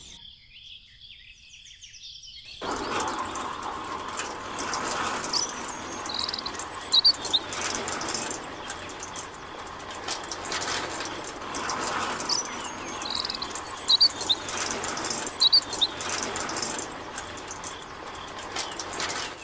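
Small birds chirping a few times over a steady rushing noise that starts about two and a half seconds in.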